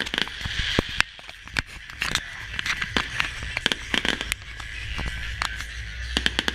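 Fireworks crackling and popping: many sharp cracks at irregular intervals, the loudest about a second in.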